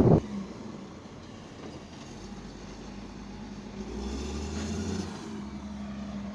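Heavy machinery running with a steady hum, and a deeper rumble that swells for about a second around four seconds in.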